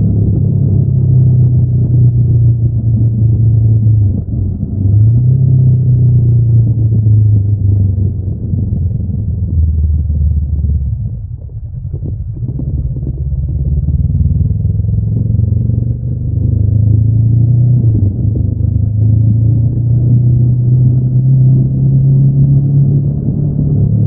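Honda NX500's 471 cc parallel-twin engine running through its stock exhaust under way, a steady low rumble. The pull breaks briefly about four seconds in, eases off and quietens around the middle, then builds back up and holds steady.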